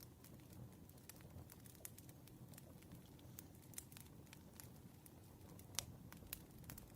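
Campfire crackling softly: irregular small pops and snaps over a low rumble, with one sharper pop a little before the end.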